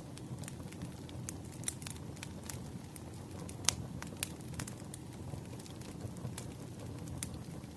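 Burning firewood: a steady low rumble with frequent sharp crackles and pops, one louder pop about halfway through.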